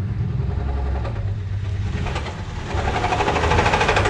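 1978 Plymouth Volare's slant-six engine running with a rapid, repeating knock from inside the engine. It gets louder about two-thirds of the way in. This is the knock of an engine that has sat unused for years.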